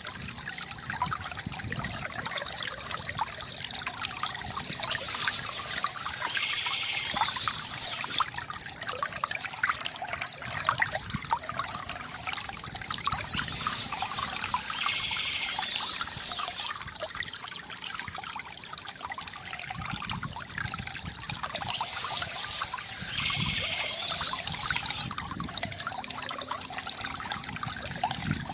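Small stream trickling and babbling over stones, a steady flow of water.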